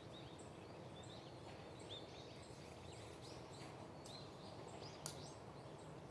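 Quiet woodland ambience with small birds repeatedly giving short, high chirps, and one sharp click about five seconds in.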